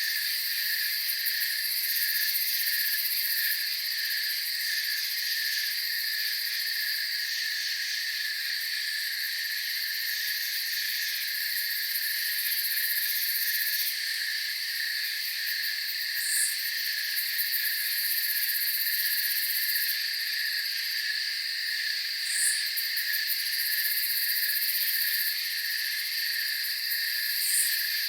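Night chorus of crickets and other insects: several steady, high trills layered at different pitches, one of them pulsing fast. Three short, very high chirps stand out, about halfway through, a few seconds later and near the end.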